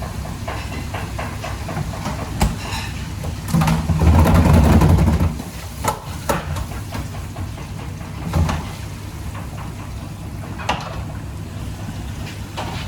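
Busy kitchen noise: a steady rumbling background with scattered clinks and clatters of cookware. A louder low rumble comes in about three and a half seconds in and lasts nearly two seconds.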